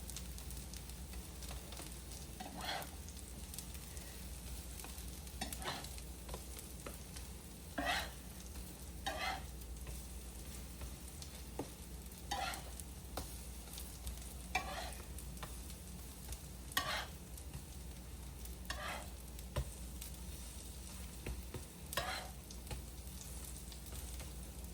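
Zucchini fritters frying in olive oil on a hot griddle: a steady sizzle, with short louder bursts every two to three seconds.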